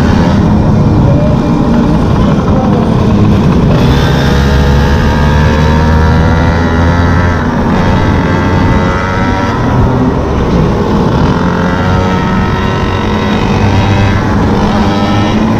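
Small two-stroke engine of a gas-powered stand-up scooter running at speed, its pitch rising and falling with the throttle, over a steady low wind rumble on the microphone.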